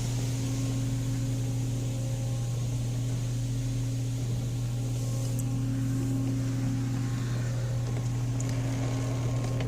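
Steady low hum heard from inside a car in an automatic car wash during the pre-soak cycle, with a faint hiss of spray over it; the car's idling engine and the wash's equipment run together, unchanging.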